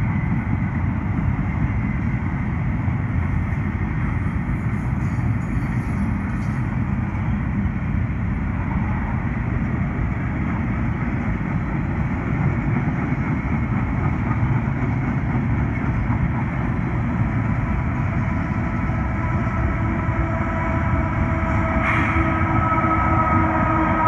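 CSX double-stack intermodal freight train rolling past, its container cars making a steady rumble of wheels on rail. Near the end a steady pitched tone comes in over the rumble and grows louder.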